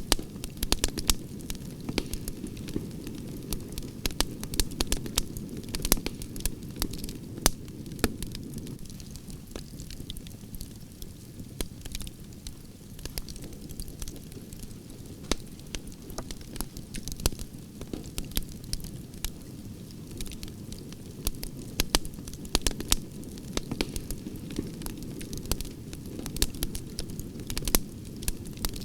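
Campfire of burning branches crackling and popping, sharp snaps coming several times a second over a steady low rush of flame.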